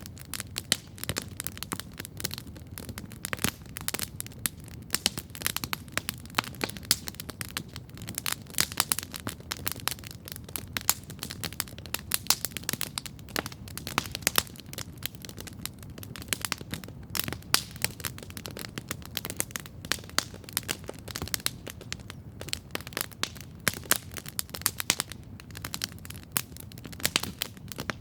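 Campfire crackling steadily: dense, irregular snaps and pops of burning wood over a low, steady rumble of the flames.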